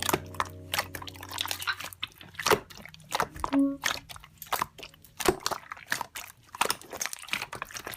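Irregular sharp clicks and crunches, several a second, after sustained music notes fade out in the first two seconds.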